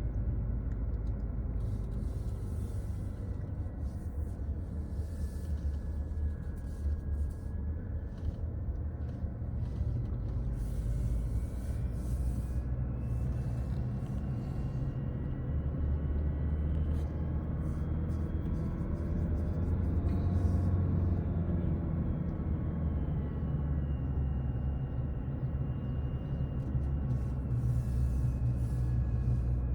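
A car's engine and road noise heard from inside the cabin while driving downhill: a steady low rumble with a faint whine that slowly rises and falls in pitch, highest about two-thirds of the way through.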